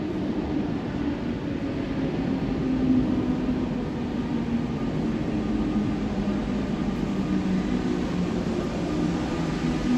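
RER B electric commuter train running into an underground station from the tunnel: a steady rumble with a wavering low hum, echoing off the vaulted platform hall.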